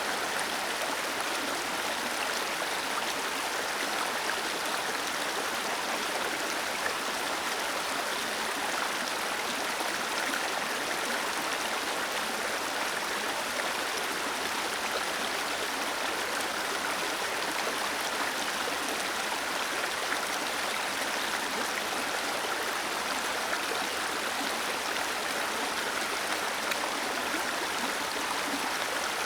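Small waterfall cascading steadily under a stone bridge: a constant splashing, rushing water sound with no change.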